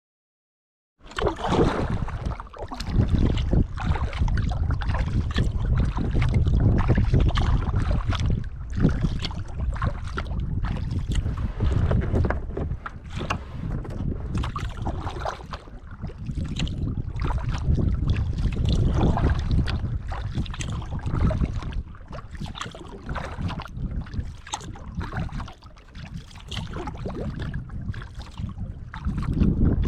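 Wind buffeting the microphone with a low, gusting rumble, mixed with the splash and slosh of water around a kayak being paddled. It starts suddenly about a second in.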